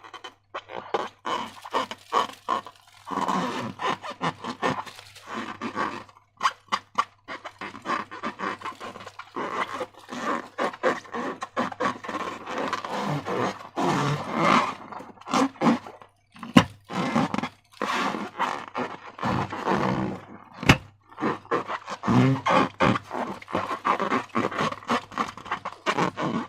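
Slime being squeezed and worked by hand: a steady run of irregular wet squelches and crackles, with a couple of sharp clicks in the second half.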